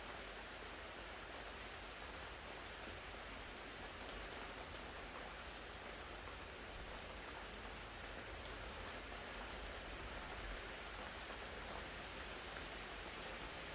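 Steady rain falling, a soft even hiss with occasional single drops ticking out of it.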